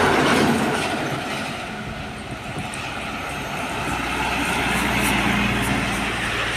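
Heavy trucks passing close by on a road. One is going away just after the start, and another approaches and passes about five seconds in with a low diesel engine drone.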